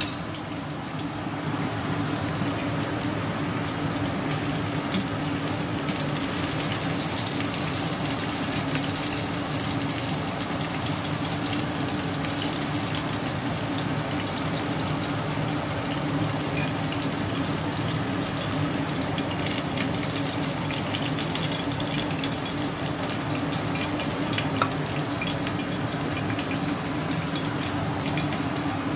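Pieces of hairtail fish frying in hot oil in a pan: a steady sizzle with a few sharp pops.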